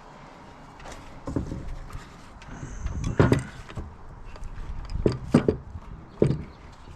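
Several knocks and clunks, the loudest about three seconds in and more near the end, as engine parts are handled and set down during the teardown.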